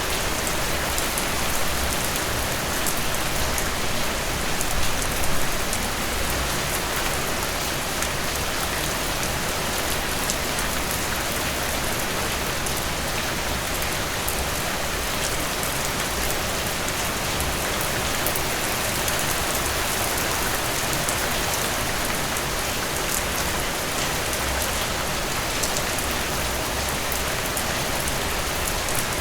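Heavy rain falling steadily: a dense, even hiss with fine patter of drops. It swells slightly in level about five seconds in.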